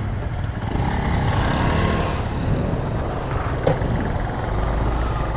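Small motorcycle engine running as the bike pulls away and rides slowly along a dirt trail. The engine pitch rises over the first couple of seconds, then holds steady.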